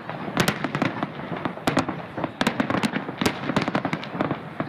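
Fireworks display going off: an irregular run of sharp bangs and cracks, several a second.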